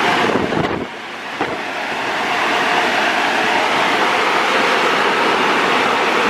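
Car wash air dryers blowing over the car, heard from inside the cabin: a steady rushing noise with a faint fan hum that builds over the first couple of seconds and then holds.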